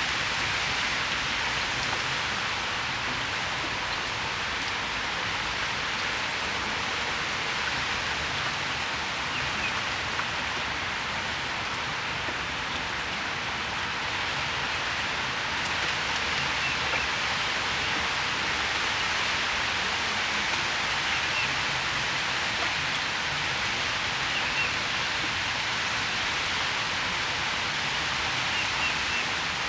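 Steady rain shower falling, an even, unbroken hiss of raindrops.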